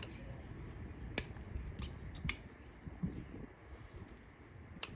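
A handful of short, sharp clicks and taps over a low background hum, the loudest about a second in and another just before the end: small parts and tools being handled during engine-bay work.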